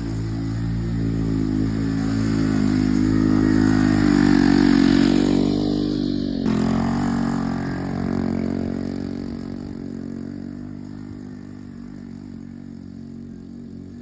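Honda ATC three-wheeler's engine running and revving, growing louder to a peak about four or five seconds in, then fading steadily away.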